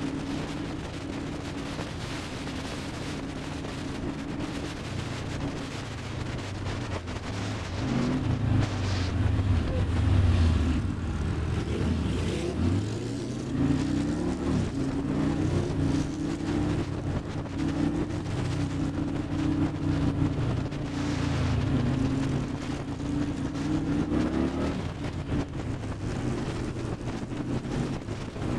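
2002 Kawasaki Mean Streak's V-twin engine running on the road, steady at first, then from about eight seconds in its pitch rising and falling again and again as the bike speeds up and slows down.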